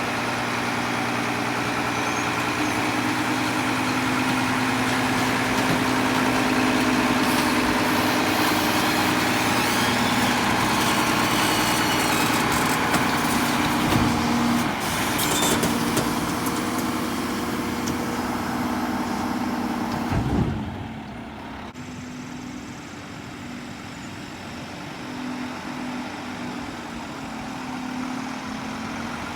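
Mack front-load garbage truck's diesel engine running at raised revs with a steady hum to drive the Heil body's hydraulics. About two-thirds of the way through a loud thump sounds, then the engine drops back to a quieter idle.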